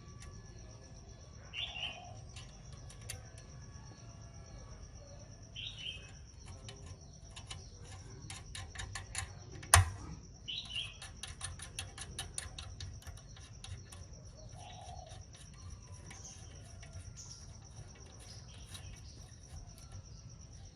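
A steady high insect drone with a bird chirping three times. A run of light clicks and taps runs through the middle, with one sharper knock about ten seconds in.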